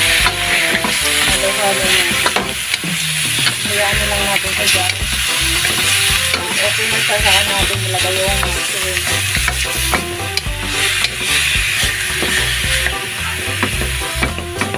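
Marinated chicken pieces sizzling in a hot metal wok as they are stir-fried, a wooden spatula scraping and turning them against the pan.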